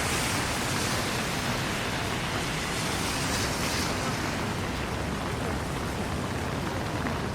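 Steady hiss of heavy rain falling on a city street.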